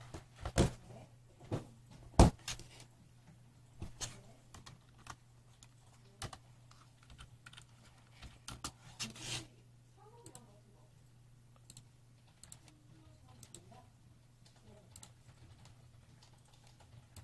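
Typing on a computer keyboard: irregular key clicks, with a few louder strokes in the first couple of seconds and sparser, fainter ones later, over a low steady hum.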